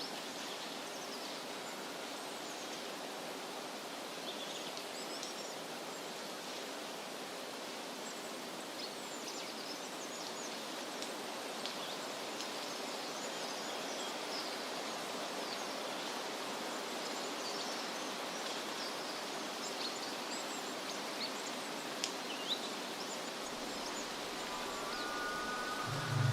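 Forest ambience: a steady, even rushing hiss with faint, scattered high chirps. Near the end a steady higher tone and a low hum come in.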